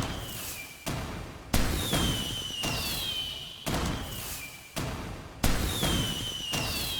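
Fireworks going off in quick succession, with a sharp bang about once a second and high whistles that slide down in pitch between the bangs.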